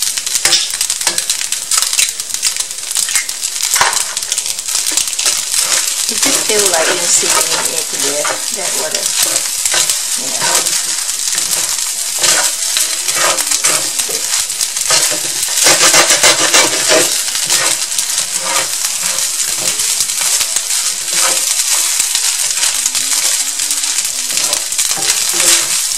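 Fried rice sizzling in a hot skillet as it is tossed and turned with a spatula and a wooden spoon, with frequent scrapes and taps of the utensils against the pan.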